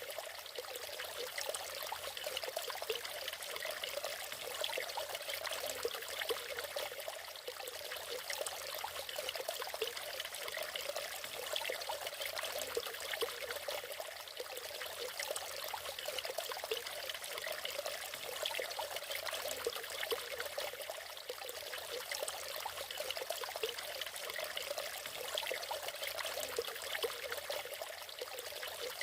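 Natural waterfall: water splashing and trickling steadily, light and hissy with little deep rumble.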